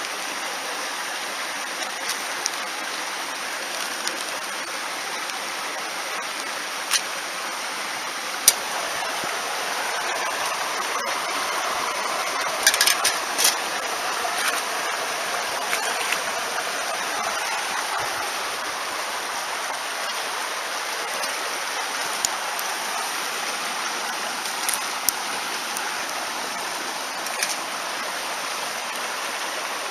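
A mountain stream rushing steadily, with scattered sharp clicks now and then and a short cluster of them about thirteen seconds in.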